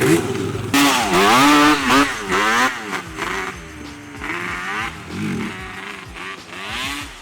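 Dirt bike engine revving up and down, loudest in the first few seconds, then running lower with its pitch still rising and falling.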